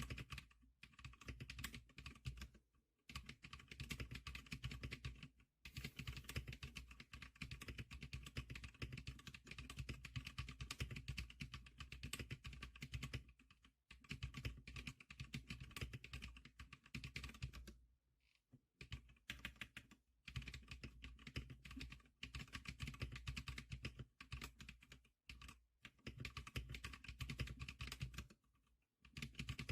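Zicliker SPK100 keyboard being typed on quickly: fast runs of keystrokes broken by short pauses every few seconds.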